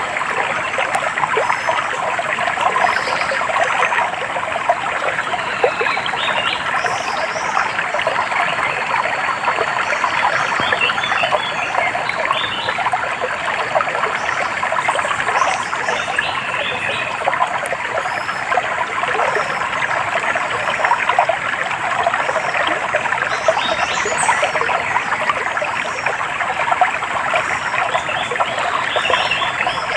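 Steady running water of a small stream, with short bird chirps scattered over it.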